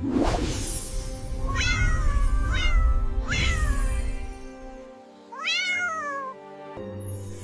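A cat meowing four times, with drawn-out falling calls, over background music. A noisy whoosh at the start and a low rumble sit under the first few seconds.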